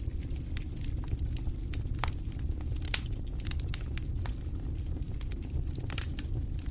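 Wood fire burning in a fireplace: a steady low rumble of the flames with irregular sharp crackles and pops, one louder pop about three seconds in.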